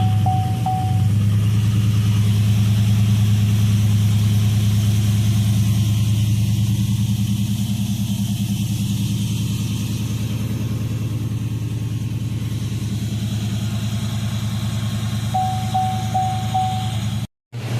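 A GMC Sierra's V8 engine idling steadily just after being started, now fitted with a new water pump. A run of about four short beeps, like a dashboard chime, sounds at the start and again near the end, and the sound cuts out briefly just before the end.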